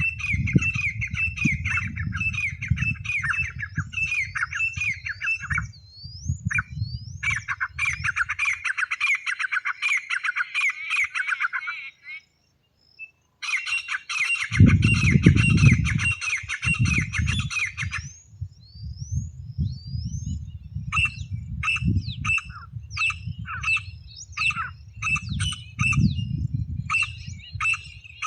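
Grey francolin (teetar) calling: rapid, harsh calls repeated in dense runs, used as a lure call. The calls break off briefly about twelve seconds in, resume, and turn into sparser sharp notes in the last third, with a low rumble under the louder stretches.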